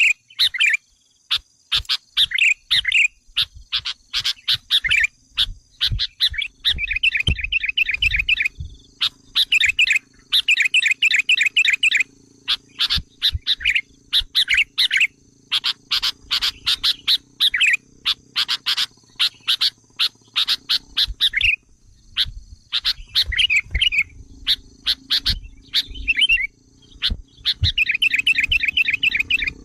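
Sooty-headed bulbuls (kutilang) calling in quick bursts of sharp chirps and short chattering trills, one after another with brief pauses. It is the agitated calling used as a lure to provoke wild bulbuls.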